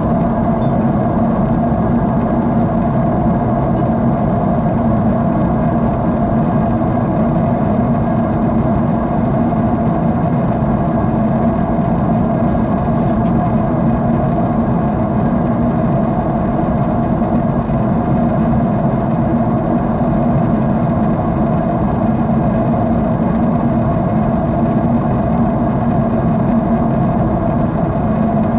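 Jet airliner engines heard from inside the passenger cabin: a loud, steady drone with a constant low hum and no change in pitch or level.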